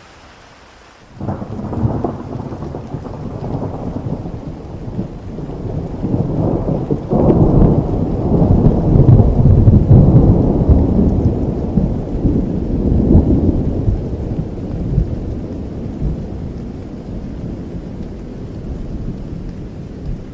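Rain falling steadily, then a long roll of thunder that breaks in suddenly about a second in. A second crack comes around seven seconds, and the deep rumble slowly dies away toward the end.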